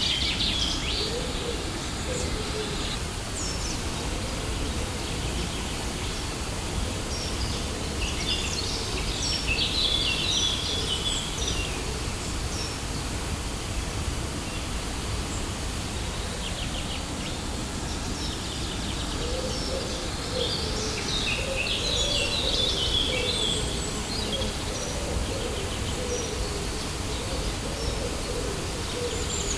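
Steady rush of a waterfall, with birds chirping in short bursts near the start, around ten seconds in and again around twenty seconds in, and a lower wavering call near the end.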